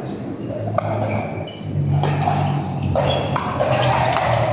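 Indoor pickleball play: a few sharp pops of paddles hitting the ball and short high squeaks of court shoes, echoing in a large hall over a low background murmur.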